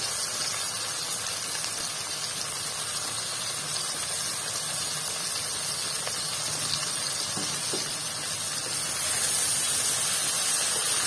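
Steady sizzling hiss of potatoes and fenugreek leaves frying in masala in a pan, getting a little louder about nine seconds in as a spatula starts stirring them.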